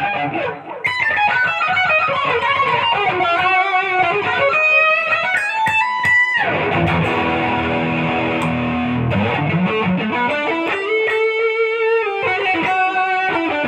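Electric guitar played solo in melodic lead lines, with slides and vibrato. About six seconds in, a long slide down is followed by lower sustained notes, and around ten seconds a slide climbs back up.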